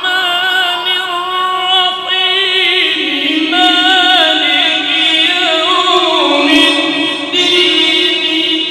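Male voice reciting the Quran in a melodic tajweed style, drawing out a single syllable into long held notes with wavering ornaments and stepwise pitch changes.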